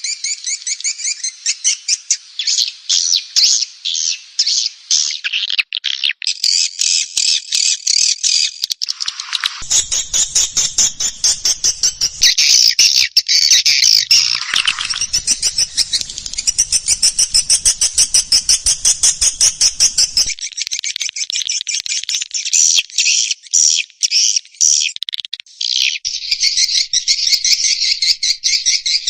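Swiftlet call-lure recording: rapid, continuous trains of high chirping twitters from edible-nest swiftlets, several call layers overlapping. A faint low rumble runs underneath from about ten to twenty seconds in. This kind of track is played to draw swiftlets into a bird house and get them to roost.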